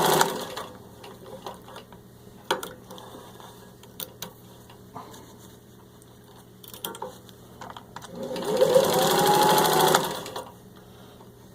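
Singer 15-91 sewing machine with its potted motor stitching through four layers of thin leather: a run of stitching that stops about half a second in, a few light clicks, then a second burst of about two seconds near the end whose pitch rises as the machine speeds up and falls as it slows.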